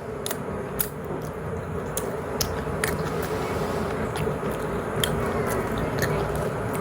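Mushroom and cheese pizza being chewed close to the microphone: irregular wet mouth clicks and smacks, about a dozen scattered through, over a steady low background rumble.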